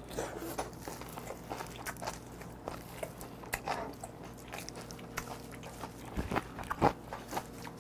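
Close-up chewing of a mouthful of rice and soy-sauce-marinated raw blue crab: wet mouth clicks and smacks, with a couple of louder sounds near the end.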